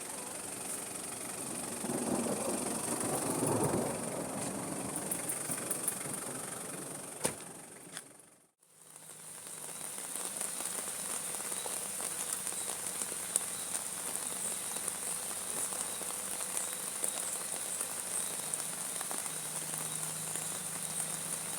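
Steady rain falling, a continuous hiss, with a louder swell about two to four seconds in. The sound drops out almost completely about eight and a half seconds in, then the rain hiss resumes.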